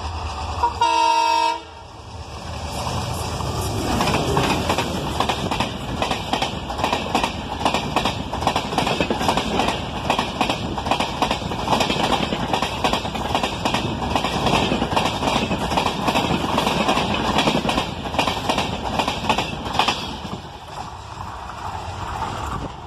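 A diesel locomotive's horn sounds one short blast about a second in. An express passenger train then passes at speed: a loud rush of rolling noise with a steady rapid clatter of wheels on the rails, which builds over a few seconds, holds, and dies away near the end.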